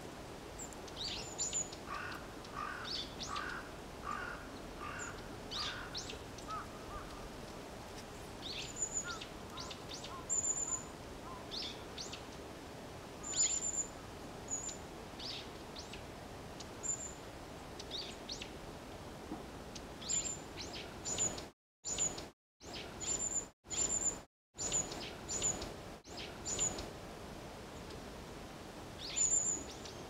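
Wild birds calling: short, thin, high-pitched calls every second or two over a steady outdoor background. In the first several seconds a lower call repeats about twice a second. The sound drops out briefly a few times about two-thirds through.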